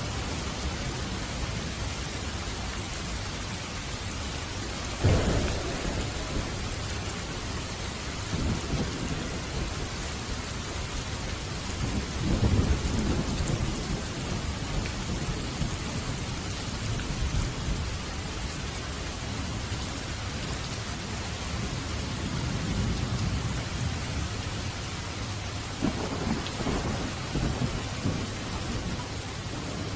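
Steady heavy rain with thunder: a sharp thunderclap about five seconds in, then rolling rumbles around the middle and again near the end.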